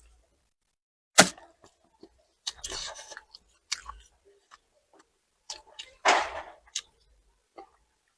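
Close-miked chewing and crunching of food, with a few sharp clicks, the loudest about a second in.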